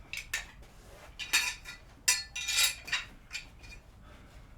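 Metal parts clinking and clanking, a string of separate knocks loudest about one and a half to two and a half seconds in, as steel mounting brackets are handled and fitted against a table saw's base.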